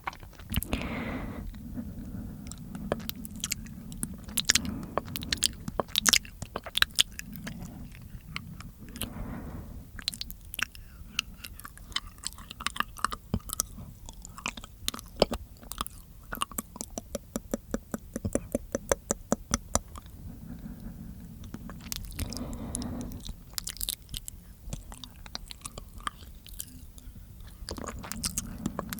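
Close-miked ASMR mouth sounds: dense runs of wet clicks and smacks from the tongue and lips, busiest in the middle.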